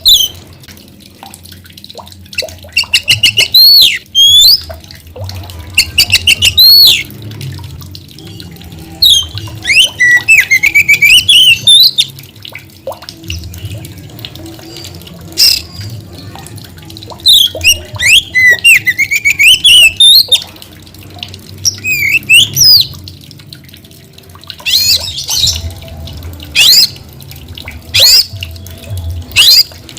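Oriental magpie-robin (kacer) singing loudly and vigorously in repeated bursts. The bursts mix sweeping whistled notes with rapid strings of sharp notes, separated by short pauses.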